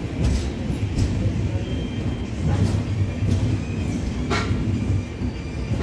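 Passenger train running on rails: a steady low rumble with a few sharp clacks of wheels over rail joints, the loudest about four seconds in.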